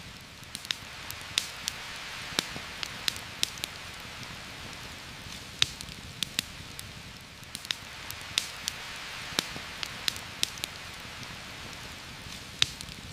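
Steady heavy rain falling on forest leaves, a continuous hiss with scattered sharp ticks from individual drops or a campfire crackling, several a second at times and at irregular intervals.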